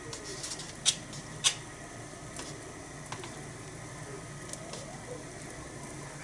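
Okonomiyaki batter and pork cooking on a thick iron griddle over a small wood fire, a low steady noise with two sharp clicks about a second in and a few fainter ticks after.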